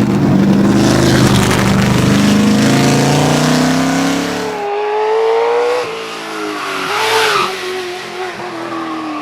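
A V8 racing car's engine accelerating hard, its note climbing steadily for about four and a half seconds. Then the sound switches abruptly to a thinner, higher engine note that rises and falls as the car works up the hill.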